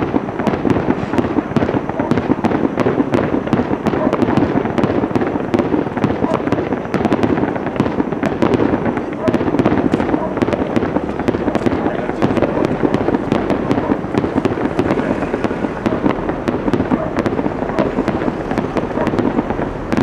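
Fireworks display going off in a dense, continuous barrage. Rapid sharp cracks and crackles come one on top of another, with no pause.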